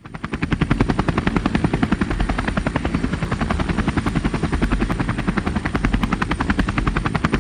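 A rapid, even chopping pulse of about ten beats a second. It fades in at the very start and then holds steady.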